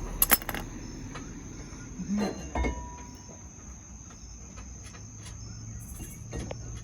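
Clinks and knocks of hand tools and metal parts during work on a car, with a few sharp clicks just after the start and two louder knocks about two seconds in, over a steady high-pitched background tone.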